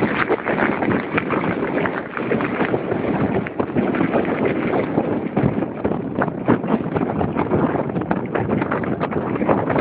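Hurricane storm wind buffeting the microphone in irregular gusts, with rain on the beach: a dense, steady rush broken by many sharp knocks.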